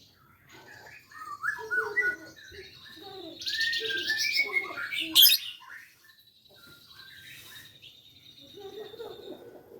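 Lovebird chattering in quick chirps and squawks, a young bird practising its long 'ngekek' song, with a harsh rasping burst about three and a half seconds in and a sharp click just after five seconds.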